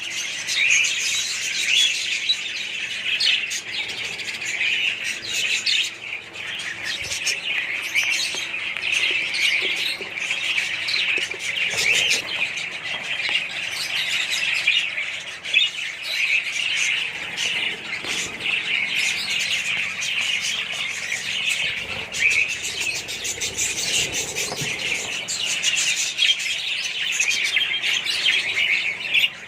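A flock of budgerigars chattering, many birds chirping and squawking over one another without a break.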